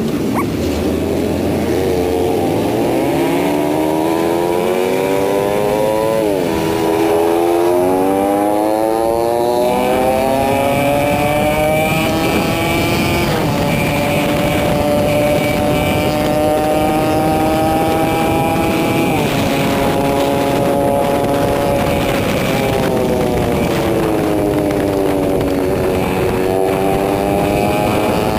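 Yamaha R15's single-cylinder engine under hard acceleration: the pitch climbs and drops sharply with each upshift, three times in the first twenty seconds or so. Then the revs fall away for a few seconds and climb again near the end.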